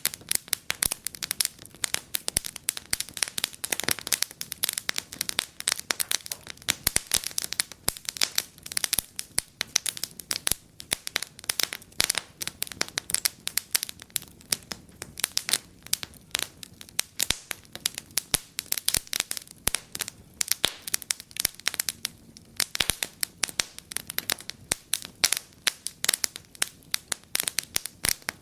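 Wood fire crackling and popping in a fireplace: a dense, irregular stream of sharp snaps over a faint low hiss.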